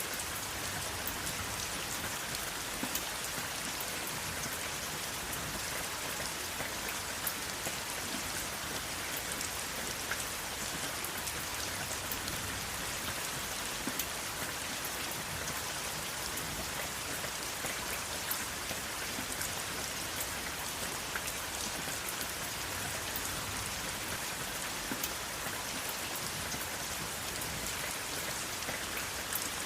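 Steady rain falling on a surface, an even hiss with individual drops ticking sharply here and there; no thunder.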